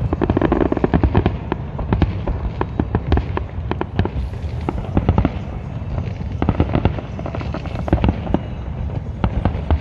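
Fireworks display going off: rapid crackling cracks and pops over a low rumble, densest in the first second or two.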